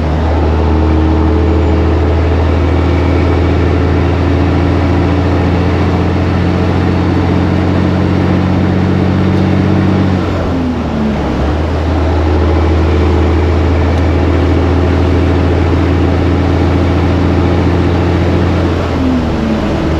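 Semi truck diesel engine running steadily under way, with the revs dropping briefly about halfway through and again near the end.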